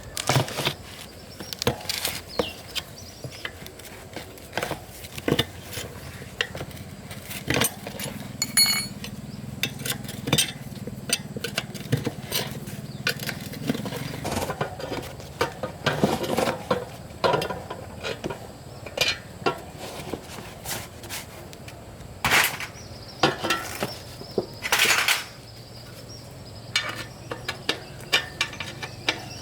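Metal hand tools and metal parts clinking and knocking irregularly during repair work, some strikes ringing briefly, over a faint steady low hum.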